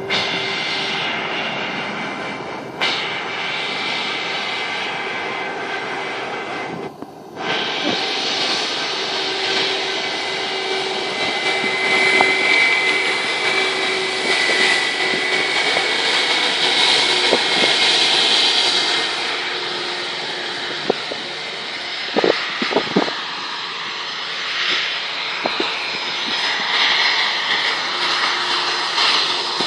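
Airplane engines at takeoff power: a loud, steady rush with a high whine over it, briefly cut off about seven seconds in.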